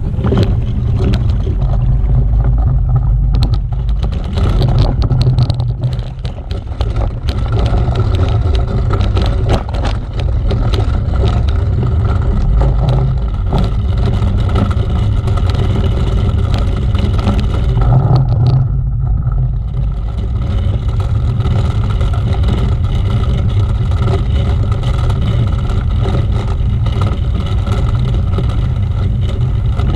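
Motor vehicle running steadily on the move, a constant low rumble with rattling and clattering over it.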